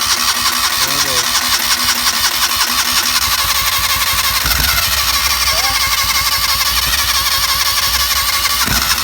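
Electric starter cranking the 2006 Joyner Sand Spider's 650cc four-stroke engine. It turns over steadily and evenly without catching and running: the engine has an ignition timing problem that keeps it from starting properly.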